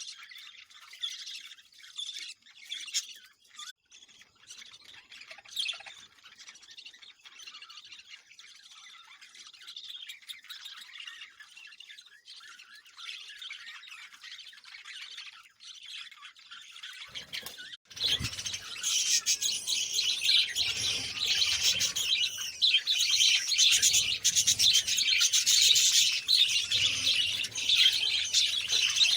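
Many small birds chirping and squawking together in a dense, continuous chatter. It turns much louder and fuller about two-thirds of the way in.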